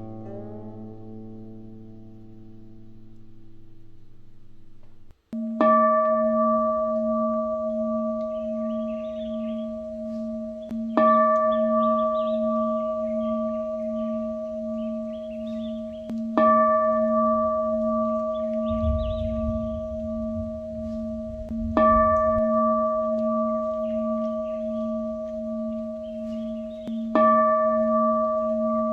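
Plucked-string music ending abruptly, then a singing bowl struck about every five and a half seconds, each stroke ringing on until the next, with faint bird-like chirps in between.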